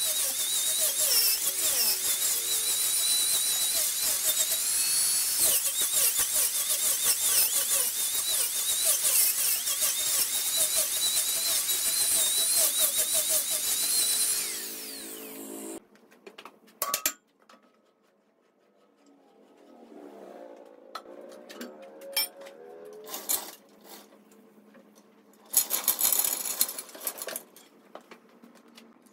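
Wood lathe with a turning tool working the spinning wood: a steady hissing scrape with thin squealing tones over it. It fades out about halfway, followed by quieter scattered clicks and knocks.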